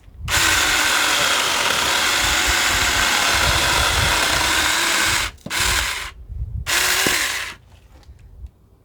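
Saker 4-inch battery mini chainsaw running and cutting into wood: one long cut of about five seconds, then two short bursts of the motor.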